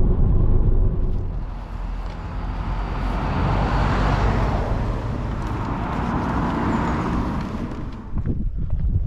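Road vehicle noise: a low rumble, then the hiss of a passing car swelling and fading. Short clicks, likely footsteps, begin near the end.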